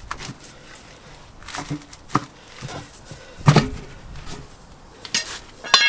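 Intermittent knocks and clanks of tyres being fitted to a wheel rim by hand with tyre bars, with a brief high squeak near the end.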